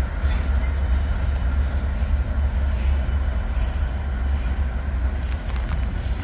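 Freight train hauled by diesel locomotives moving slowly past, a steady low rumble with a few sharp clicks about five seconds in.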